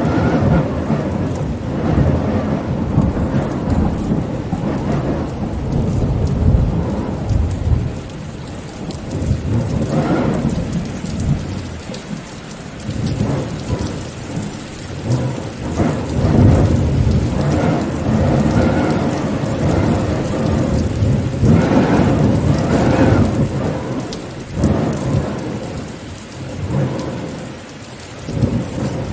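Rainstorm: steady rain with wind, under deep rumbling that swells and fades in waves every few seconds.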